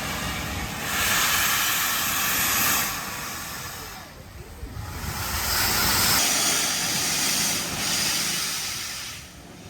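Flying Scotsman, an LNER A3 Pacific steam locomotive, blowing steam from its open cylinder cocks as it moves off slowly. It makes a few long, loud hissing blasts with short lulls between them.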